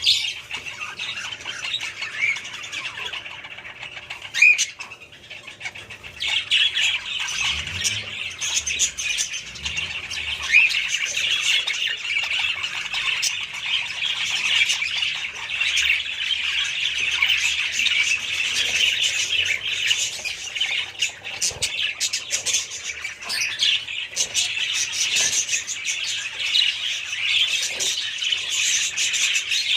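A flock of budgerigars chattering and squawking, a dense run of overlapping short calls that thickens about six seconds in and carries on steadily.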